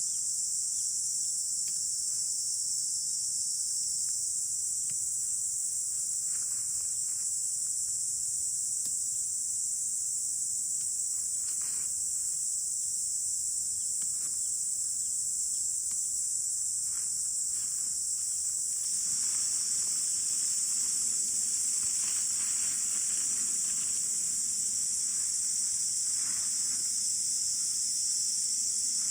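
Steady high-pitched chorus of insects, with a few faint clicks; about two-thirds of the way through, a soft hiss joins it.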